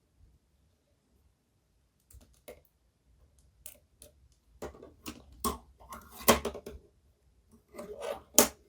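Small hard plastic parts handled by hand: scattered light clicks and taps with short rustles, quiet at first and busier in the second half.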